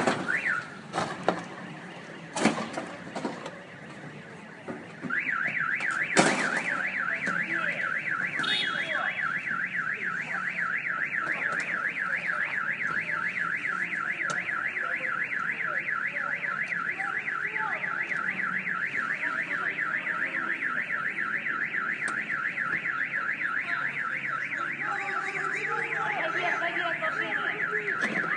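An electronic alarm siren starts about five seconds in after a few sharp knocks, then sounds steadily in a fast up-and-down warble of about four sweeps a second.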